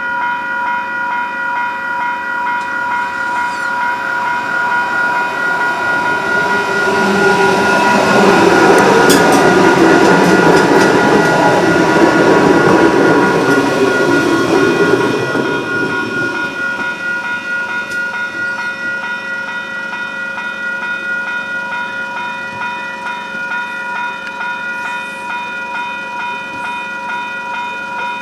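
An Adelaide Metro 4000-class electric train passes close by: its running noise swells from about six seconds in, is loudest for several seconds and then fades. Throughout, the level crossing's warning bells ring with a steady ringing tone, stopping right at the end.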